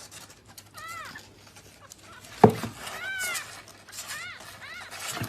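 A cat meowing several times in short, arched calls that rise and fall in pitch. A single sharp knock about halfway through is the loudest sound.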